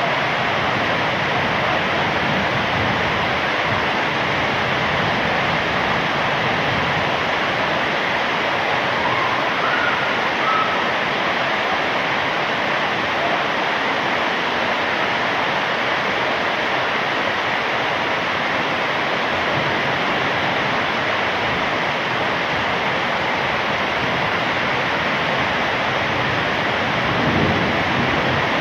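Heavy rain falling steadily in an even, dense hiss. A low rumble swells near the end.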